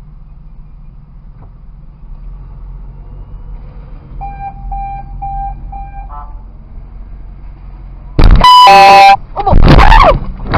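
Low road and engine hum inside a moving car, with four short electronic beeps about four seconds in. Near the end comes a very loud horn blast lasting about a second, followed by a loud wavering sound.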